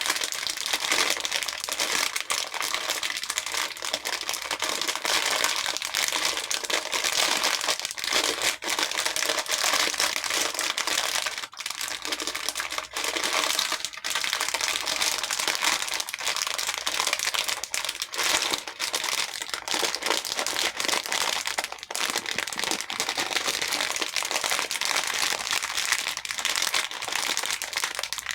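Many small hair beads clattering against each other and a bowl, a dense run of tiny clicks that goes on almost without a break, dipping briefly a little under halfway through.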